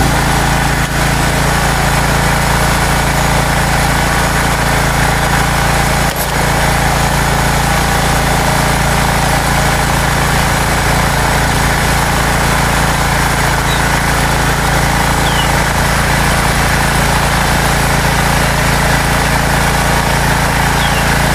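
Small gasoline generator engine running steadily after a hard-starting fault has been repaired; it now starts and keeps running.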